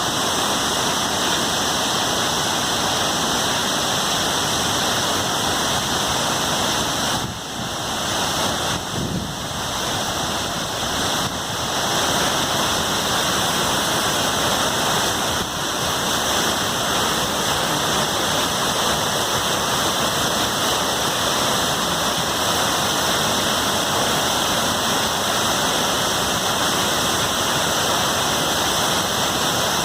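Waterfall's steady rush of falling water and spray, a dense even hiss, dipping slightly in loudness for a few seconds near a quarter of the way in.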